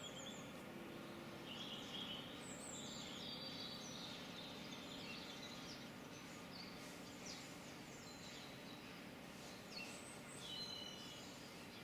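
Songbirds chirping and trilling in short scattered phrases, over a faint steady background hiss.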